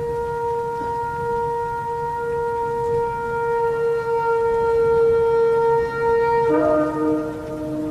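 Shofar (ram's horn) blowing one long sustained note, which breaks to a lower note about six and a half seconds in.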